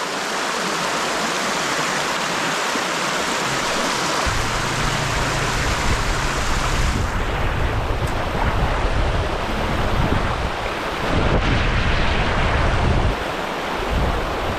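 Water rushing over a small creek spillway: a steady hiss of flowing water. A low rumble joins about four seconds in and is strongest shortly before the end.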